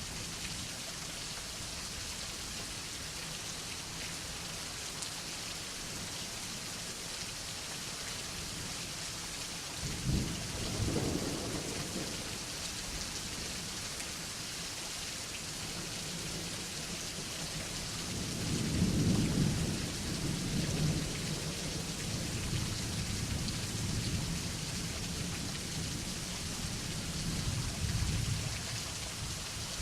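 Steady rain falling, with thunder: a sudden rumble about a third of the way in, then a longer, louder rolling rumble past the middle that comes back in waves before dying away near the end.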